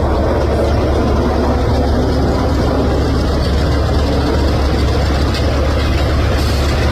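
Loud, steady roar of fighter jet engines with a deep rumble underneath, holding level throughout.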